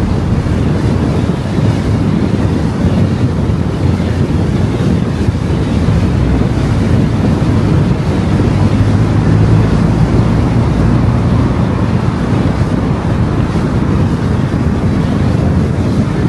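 Car driving on a road: steady tyre and wind noise with a low engine hum.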